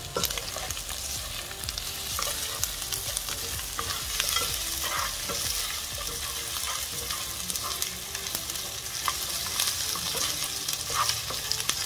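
Mutton pieces and chopped onions frying in oil in a pan: a steady sizzle, with frequent light scrapes and taps as a wooden spatula stirs them. The onions are being fried until golden.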